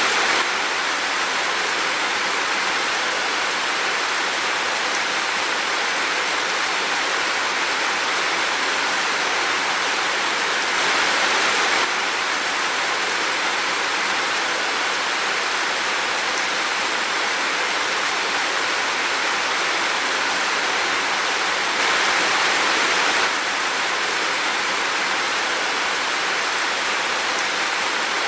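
Heavy rain falling steadily as a dense, even hiss, swelling slightly for a second or so twice.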